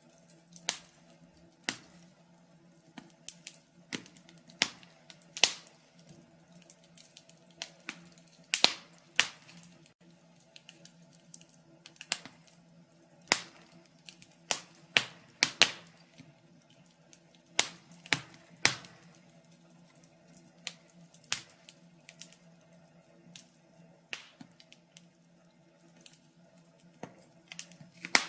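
Log fire crackling: irregular sharp pops and snaps, sometimes several in quick succession, over a faint steady low hum.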